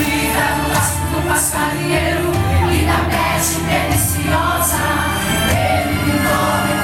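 Gospel worship song with a group of singers over a steady bass line and regular cymbal strokes.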